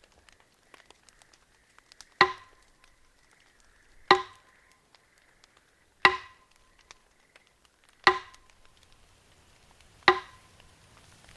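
Axe chopping wood: five sharp strikes, evenly about two seconds apart, each with a short ringing tone.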